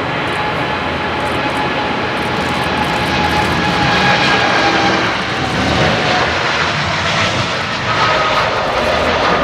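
Boeing 777-300ER's two GE90 turbofans at takeoff thrust: a loud, rushing jet roar with several whining tones that slide slowly lower as the aircraft goes past.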